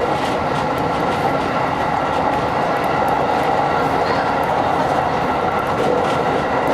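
Electric train running at speed between stations: a steady rumble of wheels on rails with faint clicks, heard from inside the train.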